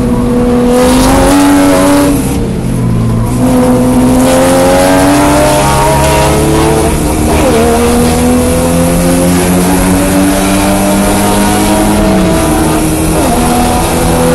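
1987 Porsche 924S's 2.5-litre four-cylinder engine at racing speed. The revs climb steadily, drop sharply at a gear change about seven seconds in, climb again, then fall off near the end.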